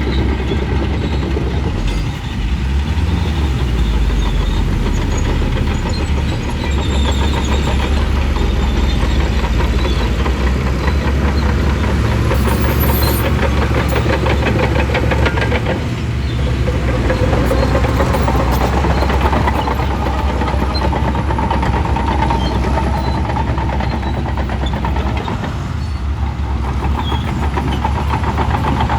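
Shantui bulldozer's diesel engine running loud and steady under load, with a fast rattling clatter over it. The engine note rises about halfway through and stays higher.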